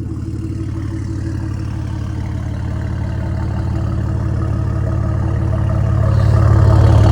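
BMW N54 twin-turbo straight-six idling steadily through a muffler-deleted exhaust with catless downpipes and the secondary cats cut out. It gets louder toward the end.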